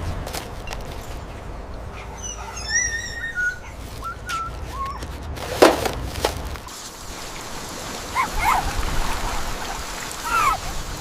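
A dog whimpering: a run of high, wavering whines from about two seconds in, then a couple of short whines near the end, over a steady background hiss. Two sharp clicks fall in the middle.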